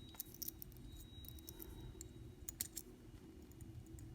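Faint clicks and taps of small plastic and metal parts of an N scale locomotive chassis being handled and pried as the motor mounts are worked free, in two short clusters, near the start and past the middle, over a low steady hum.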